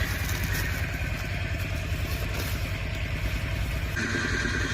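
Motorcycle engine running steadily while riding, with a dense low rumble. About four seconds in, a steady higher-pitched whine joins it.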